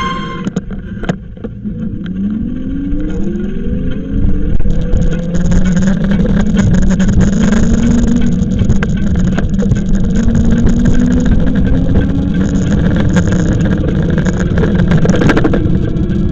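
A motor vehicle's engine drops in pitch, then speeds up steadily a couple of seconds in and holds a higher note, over heavy low rumble from wind and road.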